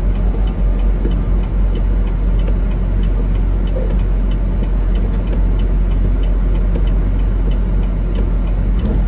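Steady low engine and road drone inside a semi truck's cab, with a regular light ticking running over it.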